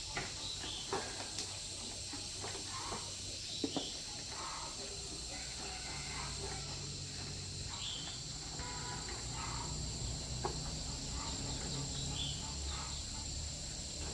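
Steady high insect trilling, like crickets or cicadas, with a few short chirps and scattered light clicks and knocks.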